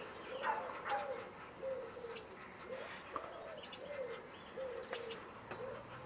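Birds calling: a steady series of short, low notes that rise and fall, about one every 0.7 s, with a few brief high chirps between them.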